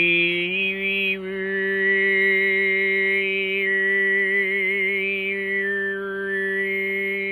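Overtone throat singing (khöömii): one voice holds a steady low drone, stepping up slightly about half a second in, while a high whistling overtone melody above it shifts between notes, wavering in the middle.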